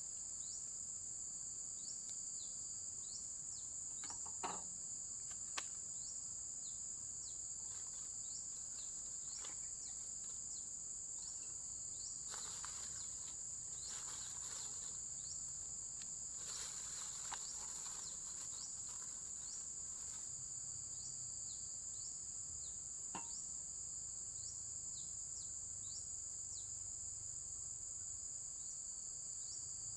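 Steady high-pitched insect chorus of crickets, with short rising chirps repeating through it. A few faint knocks stand out, two of them a second apart early on.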